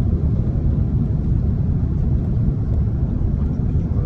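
Airbus A330-300 in flight heard from inside the cabin: a steady low rumble of engines and airflow.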